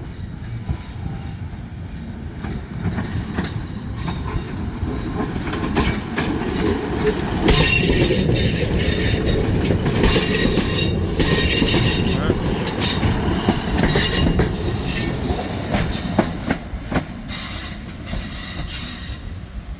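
A train running past close by, its wheels squealing and clicking over the rail joints. The sound builds from about seven seconds in, is loudest for the next several seconds, then fades away.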